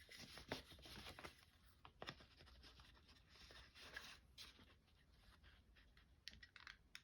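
Near silence with faint paper handling: scattered light rustles and small clicks, fewest in the second half.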